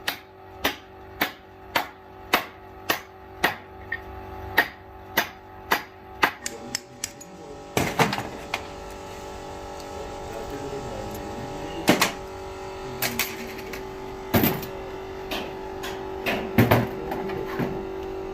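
Hammer striking metal at a steady rhythm, about one blow every 0.6 seconds, for the first seven seconds. Then a steady humming tone with scattered knocks.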